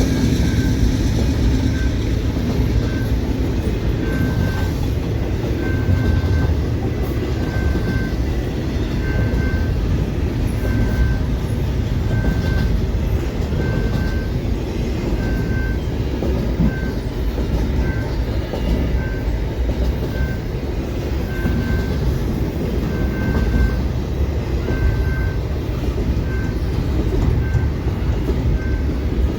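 A train rolling through a level crossing: a steady low rumble with wheel clatter over the rails. The General Signals Type 2 crossing bell rings about once a second over it.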